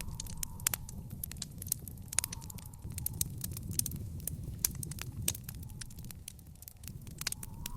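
Wood fire in an outdoor fire pit crackling: irregular sharp pops and snaps over a steady low rumble of the flames.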